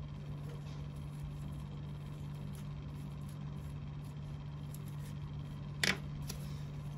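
Steady low hum of room background noise, with one short, sharp click about six seconds in.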